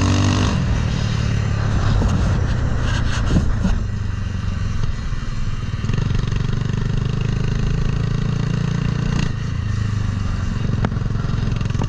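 Honda CBR300R single-cylinder engine in a swapped Grom mini bike, heard while riding. Its revs drop sharply just after the start, then it runs at a fairly steady cruising speed through the aftermarket swap header and Yoshimura can.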